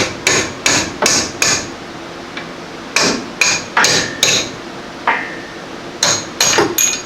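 Hammer blows on metal, each with a short ring, in three quick runs of five, four and three strikes, about two or three a second. They are knocking a Honda CR-V drive axle loose so that it can slide out.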